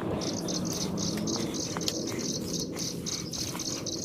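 An insect chirping in short, high-pitched pulses, about three or four a second, over a steady low background hiss.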